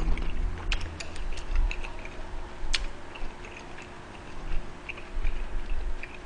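Close-miked chewing of a mouthful of udon noodles: soft wet mouth smacks and clicks scattered throughout, with a few sharper clicks.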